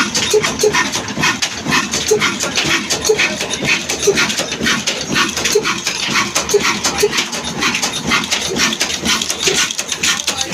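Desi-built Ruston Hornsby-type stationary diesel engine running slowly and steadily. It beats out an even rhythm of sharp knocks several times a second, with a deeper beat about twice a second.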